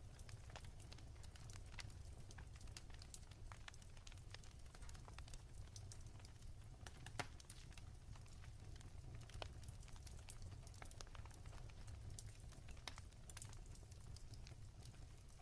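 Wood fire crackling softly, with irregular small pops and one louder pop about seven seconds in, over a low steady rumble.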